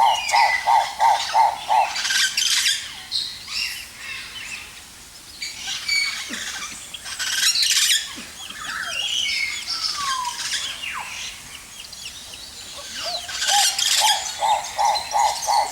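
Mixed calls of aviary birds: chirps, whistles and squawks overlapping, with a quick run of repeated notes, about three or four a second, at the start and again near the end.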